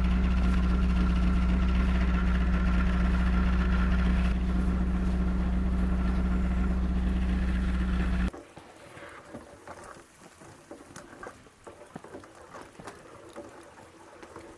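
A motor running with a steady, even low hum that cuts off suddenly about eight seconds in, followed by faint scattered small sounds.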